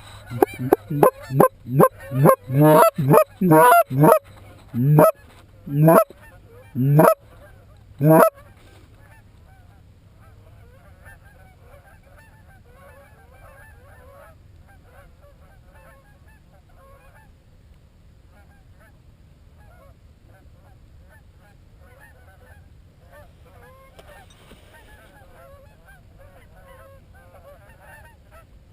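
A rapid run of loud goose honks, about fifteen in the first eight seconds, spacing out and stopping; after that only faint, scattered goose honks and clucks continue.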